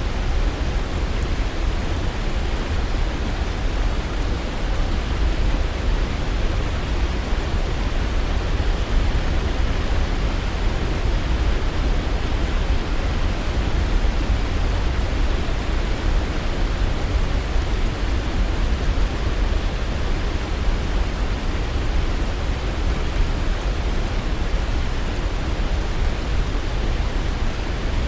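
Waterfall: a steady, even rush of falling water with a strong deep rumble, unchanging throughout.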